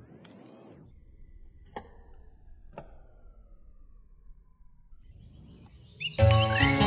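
Faint whooshing sweeps and two sharp clicks about a second apart, under a thin whistle that slowly falls in pitch. About six seconds in, loud music cuts in suddenly.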